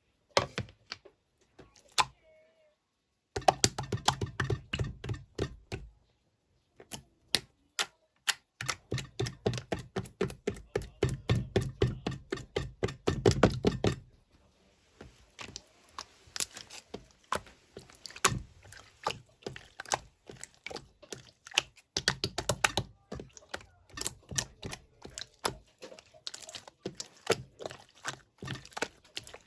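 Sky-blue clear slime being squished and worked by hand, making quick sticky clicks and pops. There are a few scattered clicks at first, then dense rapid runs of them with a short pause, then lighter clicking for the rest.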